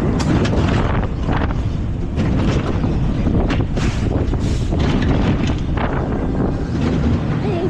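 Wind buffeting the microphone in a steady low rush, with a scatter of sharp clatters and knocks.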